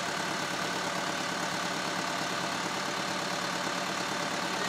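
Flatbed tow truck's engine running steadily at idle while it powers the winch pulling the van up onto the bed.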